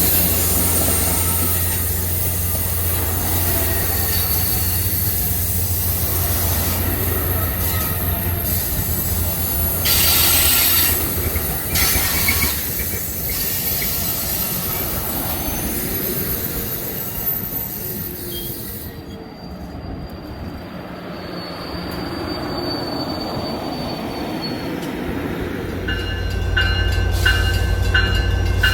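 A train's steel wheels squealing on the rails over a steady low rumble of the train running by.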